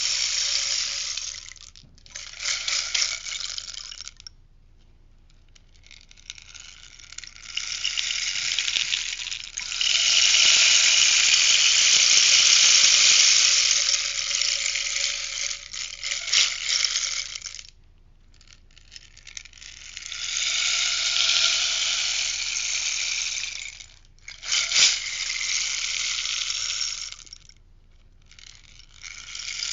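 Rainstick being tipped over and over, its beads trickling down inside in a hissing, rattling cascade. About six pours come in turn, cut by short pauses, with one long pour of about ten seconds in the middle.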